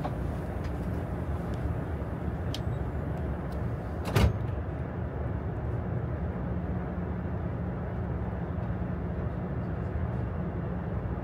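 Steady low rumble and hiss inside the cabin of a KTX high-speed train at speed. A single sharp knock comes about four seconds in, after which the high hiss dies down.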